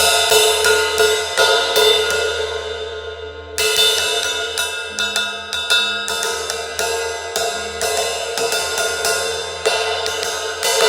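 18-inch crash cymbal struck over and over with a stick in a quick, uneven pattern, ringing between strokes, with one harder crash about three and a half seconds in.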